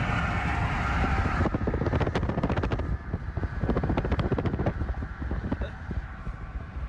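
Vehicle road noise with a steady low rumble, and a rapid run of sharp knocks and rattles from about a second and a half in until about five seconds in.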